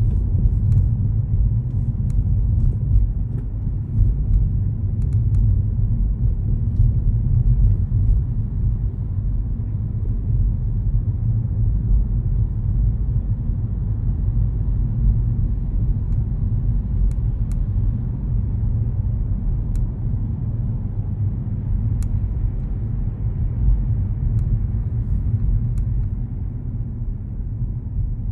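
A car driving along city streets: steady low rumble of road and engine noise.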